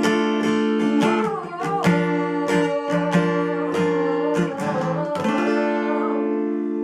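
Acoustic guitar strumming chords in a steady rhythm, then a final chord left to ring out from about five seconds in, closing the song.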